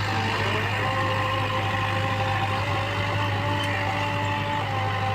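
Mahindra tractor's diesel engine running steadily with a constant low hum and a droning tone, which rises slightly in pitch about half a second in.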